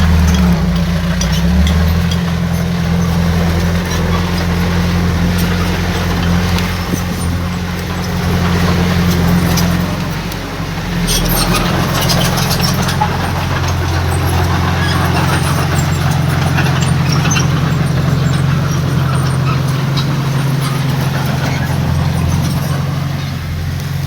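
A heavy diesel engine on earthmoving machinery runs steadily. Its pitch shifts about ten seconds in, and a few clanks and rattles follow.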